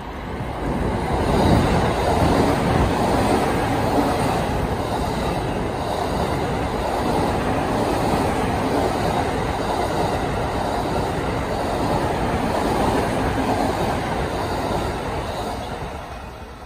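E231 series electric multiple unit passing through without stopping: a steady rumble of wheels on rails that rises about a second in, holds for most of the pass and fades near the end as the train moves away.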